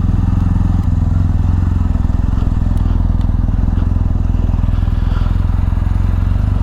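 BMW R1250 GS Adventure's boxer-twin engine running steadily at low revs.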